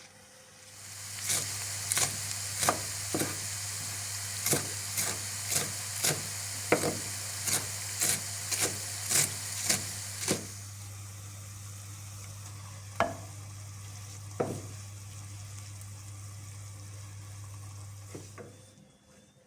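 Food frying in hot oil in a pan, sizzling, while a utensil stirs it and knocks against the pan about once or twice a second. The stirring stops about ten seconds in and the sizzle carries on more quietly, with two more knocks. A steady low hum runs under it and cuts off near the end.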